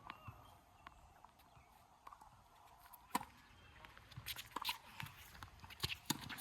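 Sharp knocks of a ball being struck during a doubles rally, with players' footsteps on the court. There is a single hit about three seconds in, a quick run of knocks between four and five seconds in, and two more near the end.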